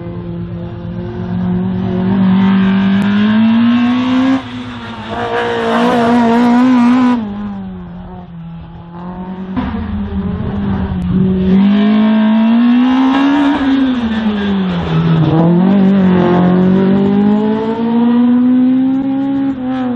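Race car engine on an autoslalom course, revs climbing hard and dropping again several times as the car accelerates and lifts between turns. It eases off for a couple of seconds a little past a third of the way in, and a sharp knock is heard about ten seconds in.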